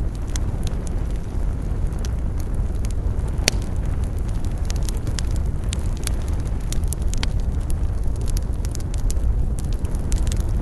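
Campfire burning: a steady low rush of flames with frequent crackles and snaps, one sharper pop a third of the way in.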